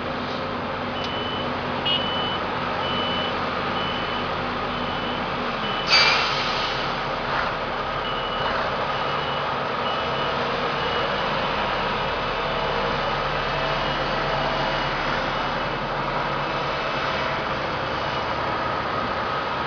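Reversing alarm of a heavy site vehicle beeping at a steady pace over the continuous noise of engines and machinery. The beeping pauses for a short, loud hiss about six seconds in, then resumes for a few seconds.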